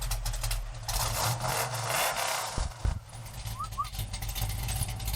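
Dodge Challenger muscle car's engine running with a deep, steady exhaust rumble. It grows louder and rougher for about two seconds, starting about a second in.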